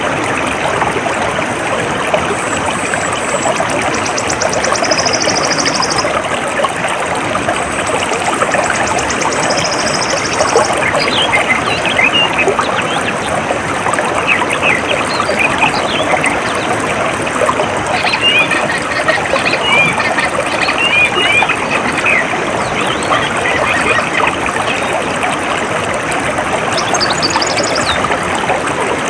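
Water trickling and flowing steadily, with small birds chirping over it. Two fast, high trills come early on, and scattered short chirps follow through the middle.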